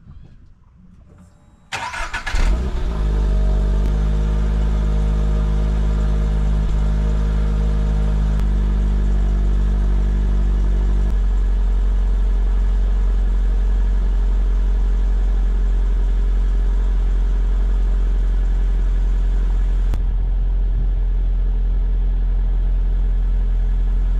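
A 2023 Subaru BRZ's 2.4-litre flat-four engine cranks and catches about two seconds in, then settles into a steady idle.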